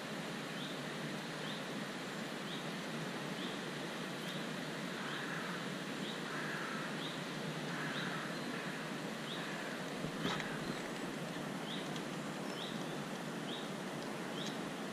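A short, high, rising chirp repeated roughly once a second over a steady background hiss: an animal calling.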